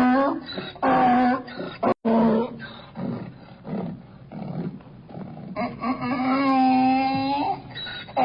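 An animal's drawn-out, steady-pitched cries: a few short ones, then one held for about two seconds near the end.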